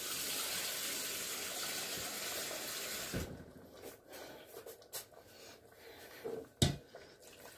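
Water running in a steady stream as a little more is added to the pot, stopping about three seconds in. A few light knocks follow, then a sharper clatter near the end.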